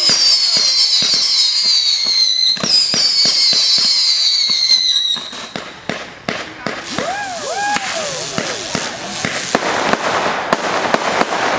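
Fireworks display: two long, high whistles falling in pitch over the first five seconds, amid rapid crackling pops, followed by scattered bangs and a dense crackling hiss near the end.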